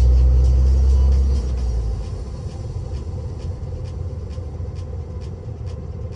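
Truck engine and road noise while driving: a heavy low engine rumble drops away about a second and a half in, as if the throttle is eased off, leaving steadier tyre and road noise. A faint regular ticking runs through it at about two to three a second.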